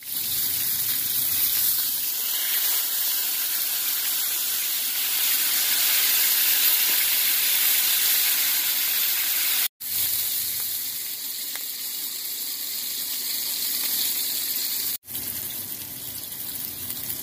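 Mackerel steaks frying in hot olive oil in a pan: a steady sizzle that briefly cuts out twice, about ten and fifteen seconds in.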